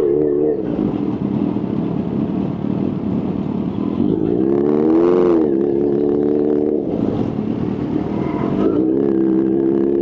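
Kawasaki H2's supercharged inline-four engine running and revving. Its pitch drops off early, swells up and back down about five seconds in, breaks off near seven seconds and settles back to a steady pitch near nine seconds.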